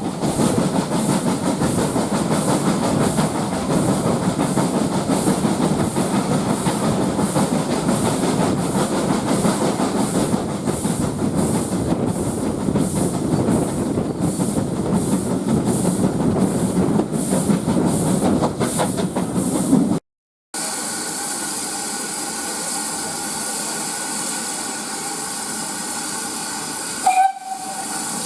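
Steam locomotive running, a dense rush of noise with regular beats about two a second. After a cut comes a steady hiss of steam, with a brief louder sound near the end.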